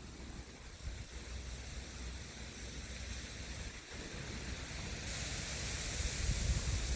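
Steady hiss with a fluctuating low rumble of wind buffeting the microphone; the hiss gets brighter and a little louder about five seconds in.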